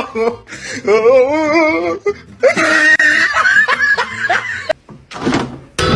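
A person laughing, a high wavering laugh in two long bouts.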